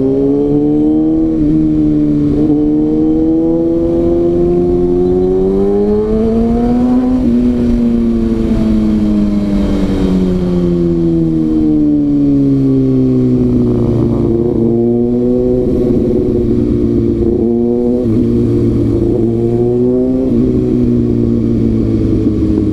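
Kawasaki ZX-6R's inline-four engine pulling through the gears. Its pitch climbs with quick drops at each upshift, falls for several seconds as the bike slows around the middle, then climbs through the gears again.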